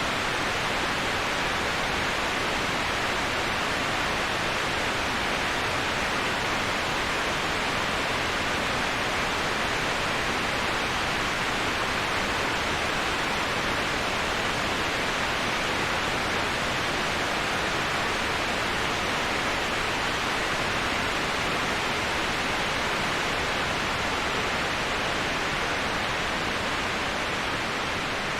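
Waterfall, a steady, even rush of falling water that never changes, strongest in the middle and upper range.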